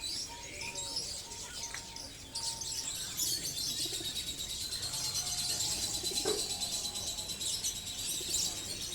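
Many caged songbirds chirping together. Scattered chirps at first, then about two seconds in a dense, continuous high chirping takes over.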